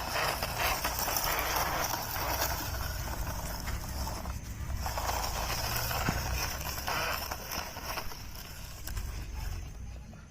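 Toy truck rattling and scraping as it is moved across sand, with a continuous clatter of small clicks that fades out near the end.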